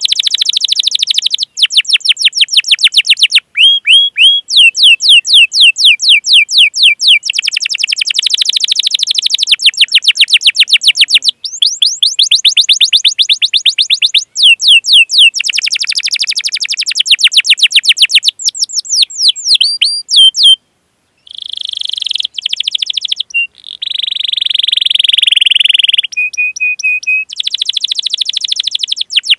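Domestic canary singing a long, loud song of fast trills: runs of rapidly repeated sweeping chirps and rolls, changing phrase every second or two, with a brief break about 21 seconds in.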